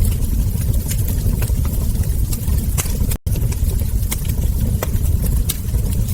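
Wood fire burning: a steady low rumble with irregular sharp crackles and ember pops. The sound cuts out for an instant about three seconds in.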